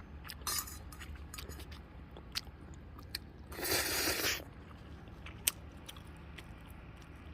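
Close-up eating sounds from ramen being eaten: chewing and lip-smacking with small clicks. A louder rushing sound of just under a second comes about three and a half seconds in, and a sharp click about two seconds later.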